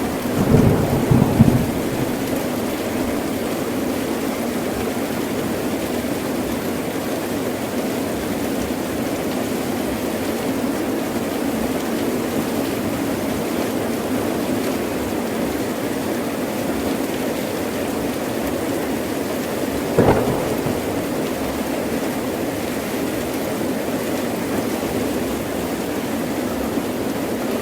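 Heavy rain falling steadily, with thunder: a rumbling cluster of cracks in the first two seconds and a single sharp clap about twenty seconds in.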